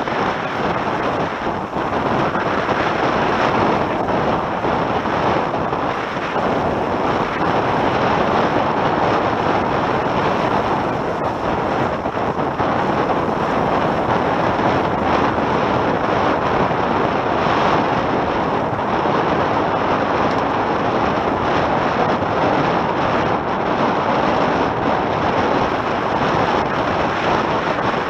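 Steady rush of wind buffeting the microphone and water streaming past the hulls of a Tornado catamaran sailing upwind.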